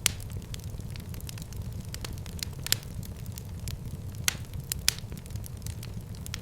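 Wood fire burning in a fireplace: a steady low rumble of flames, with sharp crackles and pops from the burning wood. The loudest pop comes right at the start, and a few more are scattered through.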